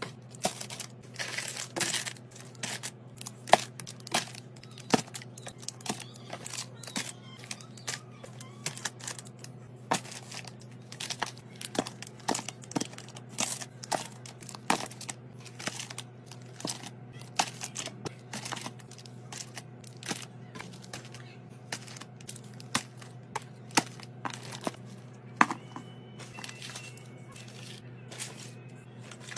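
Plastic snack packaging crinkling and tearing, with many irregular clicks and knocks as snacks are handled and set into containers during restocking.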